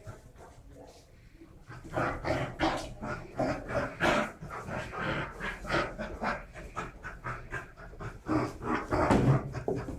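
Dog panting hard in quick, rhythmic breaths, about three a second, starting about two seconds in.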